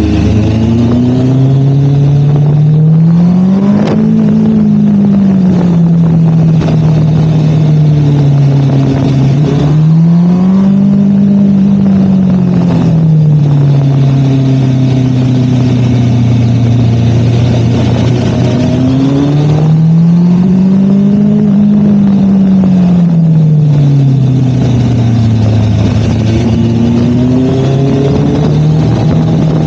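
MV Agusta Brutale motorcycle engine under way, its revs climbing and falling back three times as the rider works the throttle along a winding road.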